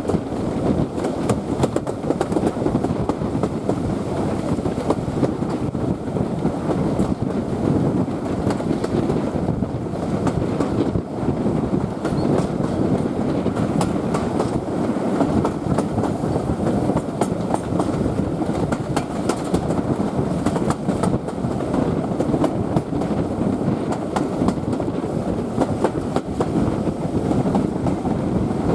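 Passenger train running along the track, a steady rumble with frequent clicks of the wheels over the rails.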